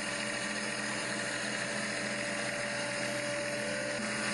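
Tractor engine running steadily, a constant mechanical hum.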